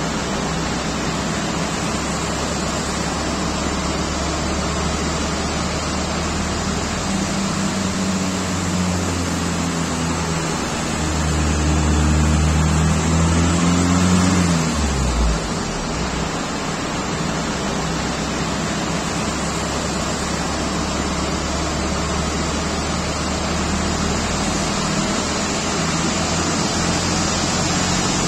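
Diesel car engine running on a dyno under a loud, steady rush of noise. The engine note rises a little about halfway through, then falls away suddenly.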